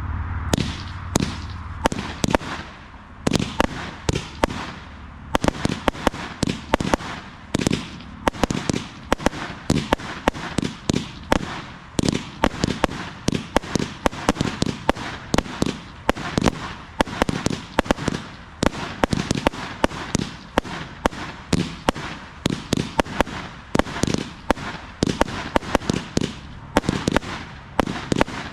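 A 200-shot compound firework barrage cake firing continuously, a rapid run of launch thumps and bursts several times a second, with crackling between them.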